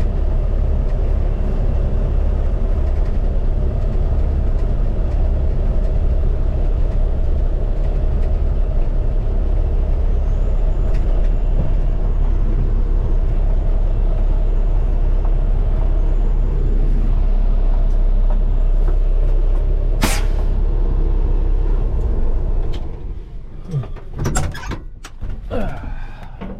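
Steady low rumble of a vehicle running, cutting off sharply about 23 seconds in, followed by a few short knocks and clunks.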